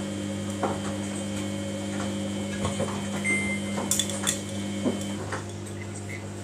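Samsung washing machine running a service-mode wash: a steady motor hum with scattered light clicks and knocks. There is one short high tone about three seconds in, and part of the hum drops away about five seconds in.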